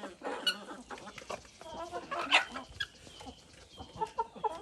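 A flock of chickens clucking, many short calls overlapping, gathered at a freshly filled drinker. One louder, sharper call stands out a little past halfway.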